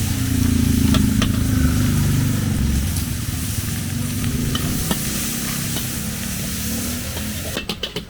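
Food being stir-fried in a hot wok: a steady sizzle over a low rumble, with a few sharp clinks of the metal spatula against the pan. Near the end a fast, even beat starts.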